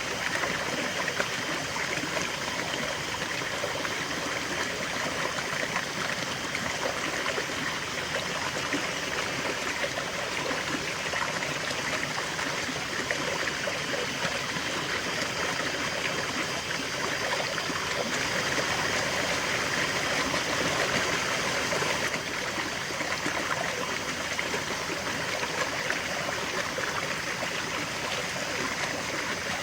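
River water flowing steadily, a continuous rushing and trickling with a slight swell in the middle.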